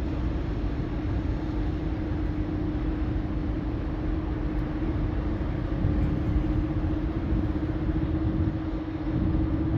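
Steady running noise of a vehicle: a low rumble with a steady hum throughout, starting abruptly at the beginning.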